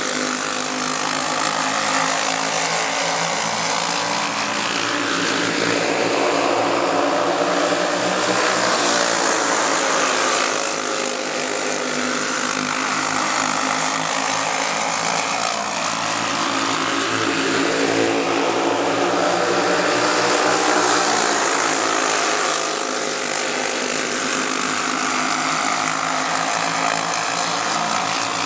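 A pack of racing go-karts with Briggs & Stratton Animal single-cylinder four-stroke engines running flat out on a dirt oval. The engine note rises and falls in repeating waves as the karts accelerate through the turns and sweep past, about every ten seconds.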